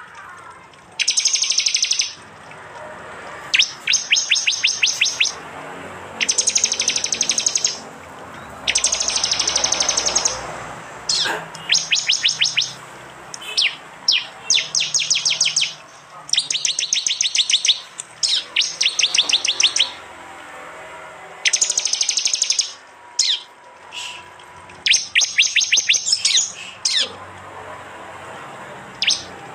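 Prenjak (prinia) songbirds giving loud 'tembakan' calls: rapid, high, ticking trills about one to two seconds long, repeated over and over with short pauses between.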